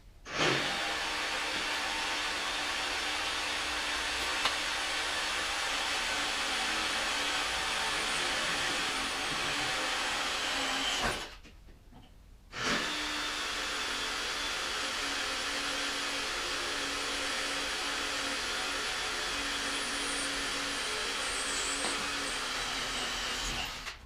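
A power tool running steadily in two long runs, with a break of about a second and a half near the middle.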